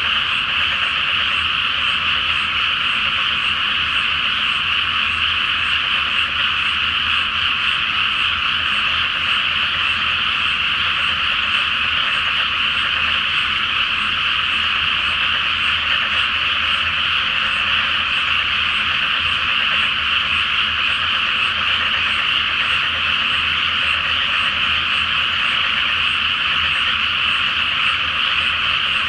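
Large chorus of frogs calling from a flooded rice paddy: many overlapping croaks merge into a steady, unbroken din with no pauses.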